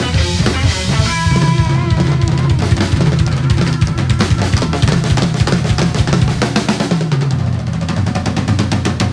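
Rock band playing live without vocals: bass and guitars under a busy drum kit with bass drum and snare. The drum hits come thicker and faster toward the end, like a build-up fill.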